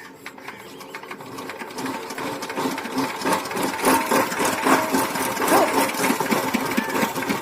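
Stationary diesel engine running with a rapid, even knocking beat, building up over the first few seconds and then holding steady.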